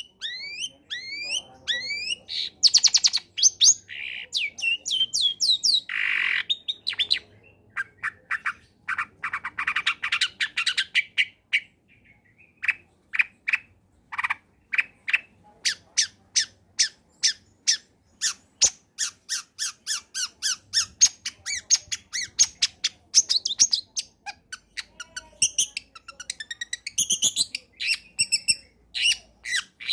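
Long-tailed shrike (cendet) singing a loud, varied song: quick rising whistled notes, a couple of harsh scratchy calls, and long runs of fast, rapidly repeated chattering notes.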